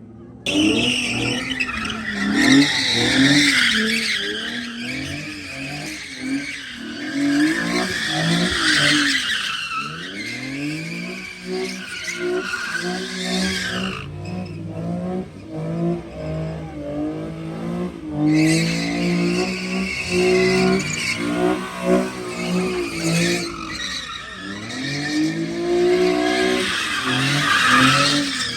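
A car engine revving hard and repeatedly, with tyres screeching on pavement during the first ten seconds and again from about 18 seconds in. In between, the engine alone revs up and down.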